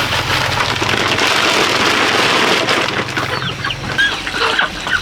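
Chickens clucking, starting about three seconds in, over a steady hiss.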